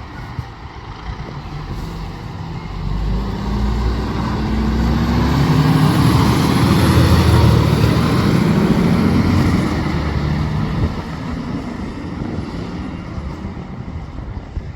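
A heavy road vehicle drives past close by. Its engine and tyre noise swells to a peak about halfway through, then fades away, with no siren sounding.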